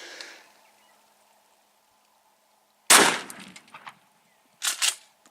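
A 12-gauge shotgun loaded with buckshot fires once at a truck door about three seconds in, a sharp report with a ringing tail. Two shorter, quieter sharp clacks follow close together near the end.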